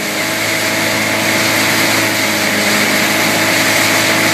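Tow boat's engine running steadily at speed, a constant drone under a steady hiss.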